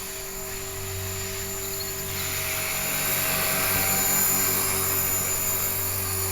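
HK-450 clone 450-size electric RC helicopter in flight: a steady rotor hum with a high motor whine. It grows louder toward the middle as it comes closer, then eases slightly.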